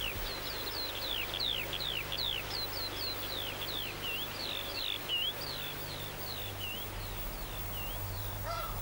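A bird calling a long run of short, high chirps that each drop in pitch, about three a second, over a faint steady low hum.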